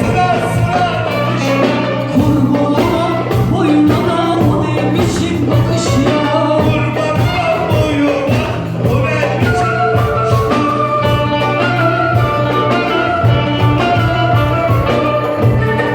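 A live stage orchestra playing, with a voice singing over a steady bass line.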